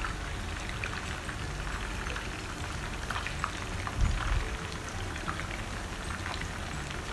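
Masala-coated chicken leg pieces shallow-frying in coconut oil in a nonstick pan: a steady sizzle with many small crackles and pops. A low thump about four seconds in.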